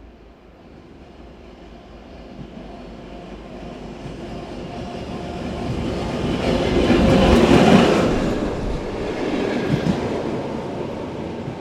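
ChME3 diesel shunting locomotive and one wagon rolling past. The engine and wheels grow louder, are loudest about seven to eight seconds in, then fade as they move away, with a few knocks from the wheels near the end.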